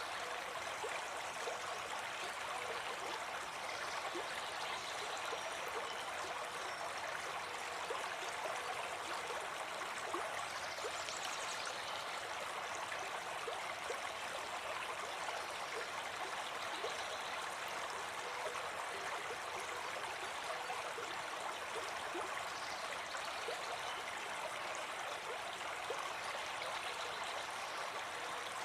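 Steady rushing of a stream's running water, an even, unbroken flow.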